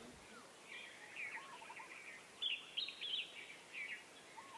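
Birds chirping and calling, a scatter of short rising and falling whistled notes, the loudest few about halfway through, over a faint hiss.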